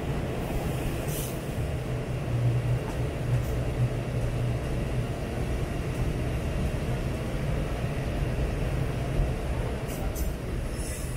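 Norokko sightseeing train running slowly into a station, heard from an open-window passenger car: a steady low rumble and hum of the train on the rails, with a couple of brief high hisses near the end.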